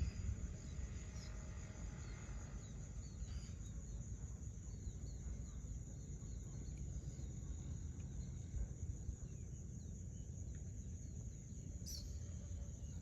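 A steady high-pitched insect chorus with small birds chirping on and off, over a constant low rumble.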